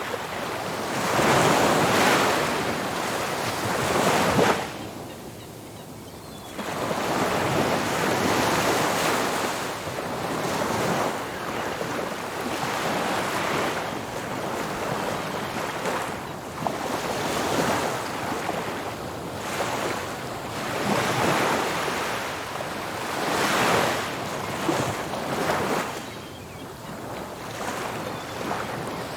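Ocean waves breaking on a beach, the surf surging and washing back in repeated swells, with a short lull about five seconds in.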